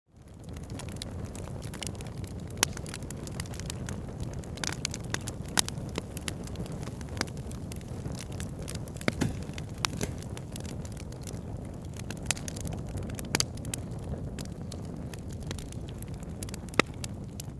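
Wood fire burning in a fireplace: a steady low rush of flames with frequent sharp crackles and pops from the burning wood. It fades in from silence at the very start.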